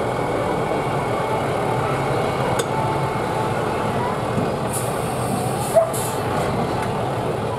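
Steady, dense outdoor noise of a truck engine running, with voices in the background and a brief sharp sound about three quarters of the way through.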